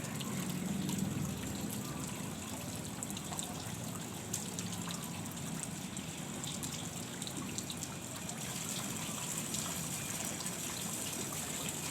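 Water trickling steadily, with a few faint small ticks.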